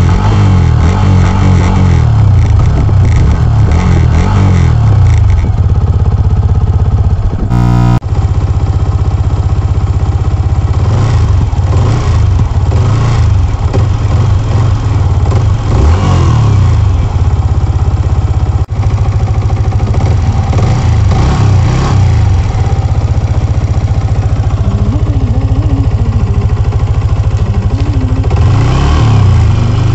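Yamaha MT-15's 155 cc single-cylinder engine running loudly through its exhaust, revved up and let fall back again and again between stretches of steady running.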